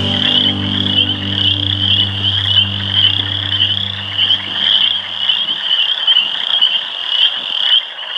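A loud chorus of many frogs calling together from a marshy pond, a dense high-pitched trilling that pulses on without a break. Beneath it a low steady drone fades away about two-thirds of the way through.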